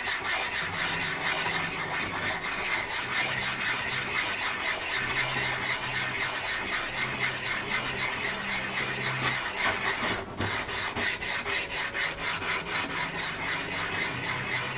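Black silicon carbide dressing stone rubbed back and forth over a sharpening stone to flatten it: a continuous gritty stone-on-stone scraping with a squealing edge, briefly interrupted about ten seconds in.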